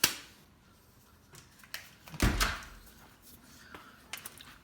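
A sharp click, then a heavier knock about two seconds in, with a few faint ticks in between: the sounds of tools or parts being handled.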